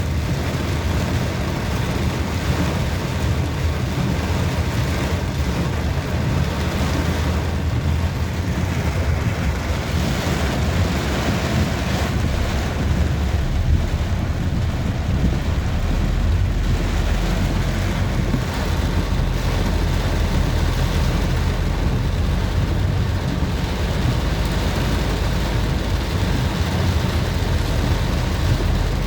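Steady noise of a motorcycle ride in heavy rain: a low, unbroken rumble of engine and road with rain hissing over it.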